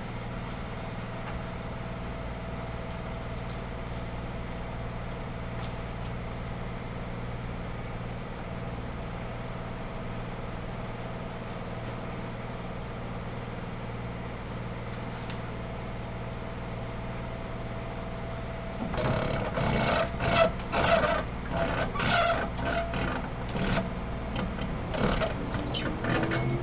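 Inside a JR 211 series 5000 electric multiple unit's motor car: a steady low hum from the train's equipment, then about two-thirds of the way in loud irregular knocking, rattling and rumbling begins. Near the end a tone rises in pitch as the train picks up speed.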